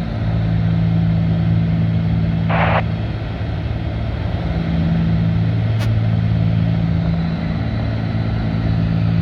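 Cessna 310's twin piston engines and propellers droning steadily in the cabin, the propellers set to 2,300 rpm for a climb, the hum swelling and fading slightly. A short hiss comes about two and a half seconds in and a faint click near six seconds.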